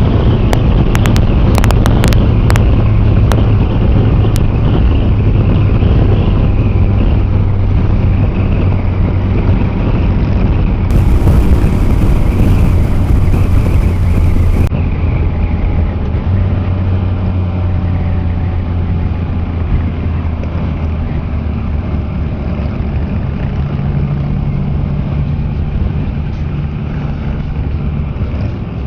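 Can-Am Spyder three-wheeler under way, a steady low engine drone under heavy wind rush on the microphone, with a few sharp clicks in the first few seconds. The drone eases a little past the halfway point.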